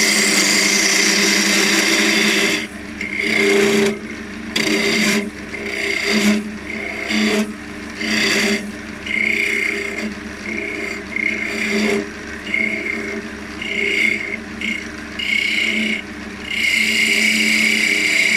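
Wood lathe running with a turning tool cutting a spinning elm blank, in short repeated passes that come and go every second or two as the decoration is shaped.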